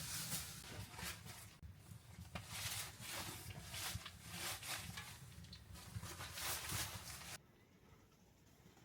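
Footsteps crunching in snow, about two a second, cutting off suddenly near the end.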